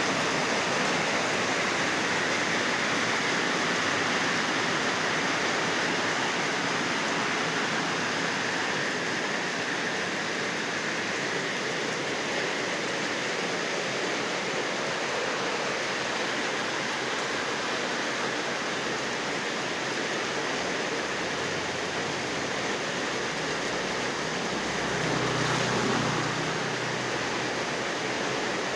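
Heavy rain pouring down in a steady hiss, with a brief low rumble near the end.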